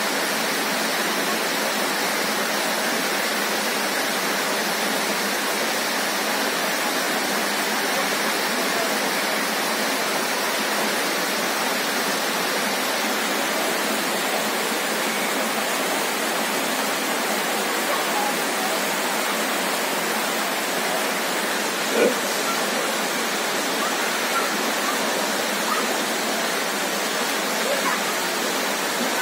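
Heavy rain falling steadily: a dense, even hiss of downpour. One brief sharp click about 22 seconds in.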